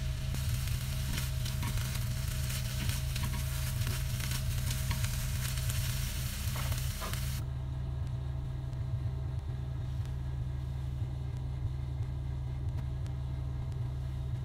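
Chicken sizzling as it fries in a pan, with occasional clicks and scrapes of stirring over a steady low hum. About halfway through the sizzle cuts off abruptly, leaving only the hum.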